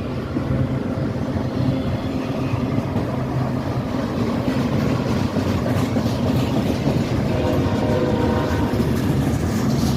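Train passing at close range: a loud, steady rumble of steel wheels running on the rails.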